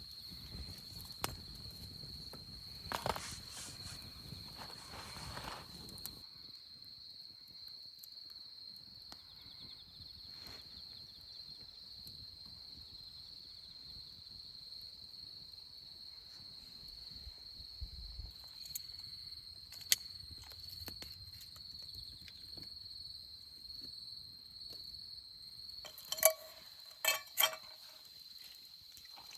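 Insects singing a steady, unbroken high trill, with some rustling in the first few seconds, scattered small clicks, and a few sharp knocks near the end.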